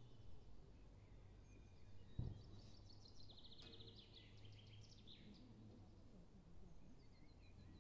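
Faint songbird song: one phrase of about three seconds with a fast trill in the middle, over a steady low hum. A short low thump comes a little after two seconds in.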